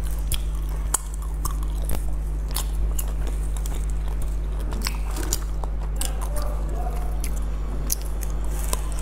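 Close-miked eating sounds of a green mugwort rice ball (qingtuan) filled with salted egg yolk and pork floss: chewing with wet mouth clicks and smacks. The ball is pulled apart about halfway through, and a bite is taken near the end. A steady low electrical hum runs underneath.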